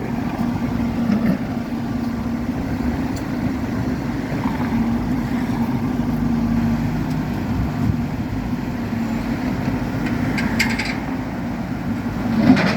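JCB backhoe's diesel engine running steadily at an even pitch, with a short clatter near the end.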